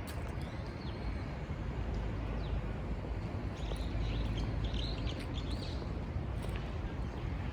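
Small birds chirping in short calls and quick falling notes, busiest a few seconds in, over a steady low background rumble.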